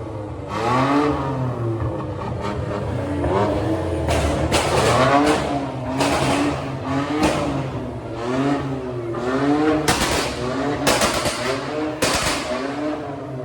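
A car engine revved up and down over and over, in quick repeated blips, with a number of sharp bangs among them.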